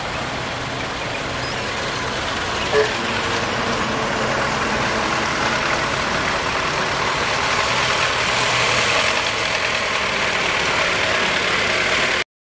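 Ford Model T four-cylinder engines running as the cars drive slowly up, growing louder as a red Model T comes close. There is a single sharp click about three seconds in, and the sound cuts off suddenly just before the end.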